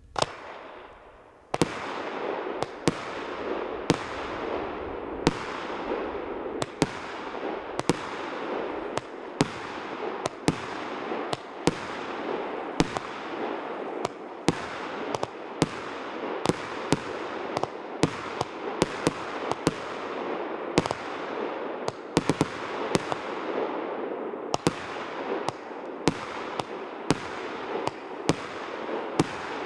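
Consumer firework battery ('Свежий ветер') firing: a pop at the start, then from about a second and a half in a continuous crackling with a sharp shot a little more than once a second.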